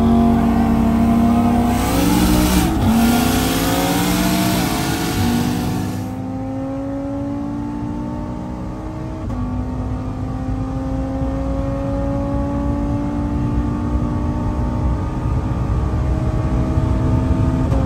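Heavily tuned turbocharged car engine at full throttle, its pitch climbing steadily through the gears with upshifts about 2, 5 and 9 seconds in. A loud hiss sits over the engine for the first six seconds.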